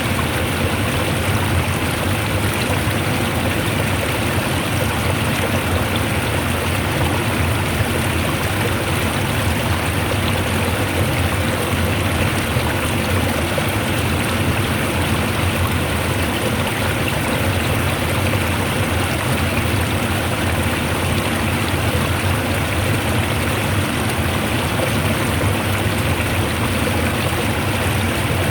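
Strongly flowing water rushing steadily, an even, unbroken noise with no separate splashes or events.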